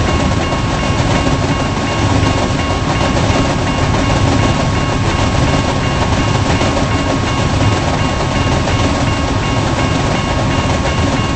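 Long intermodal freight train of container cars rolling past close by: a steady, loud rumble of wheels on the rails with clickety-clack.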